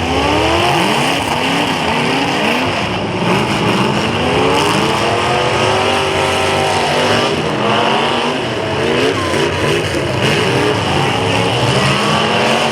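Several demolition derby cars' engines revving hard at once, their pitches rising and falling over one another.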